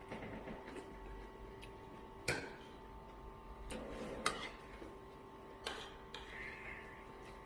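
Handling noise: a few light clicks and knocks, the sharpest about two and four seconds in, with a little rustling between them, over a faint steady hum.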